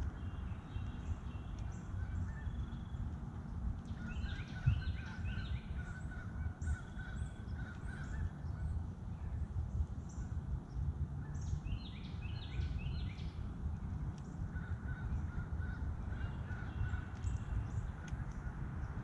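Small birds chirping in short, scattered calls, in clusters about 4 to 8 seconds in and again around 11 to 13 seconds, over a steady low rumble.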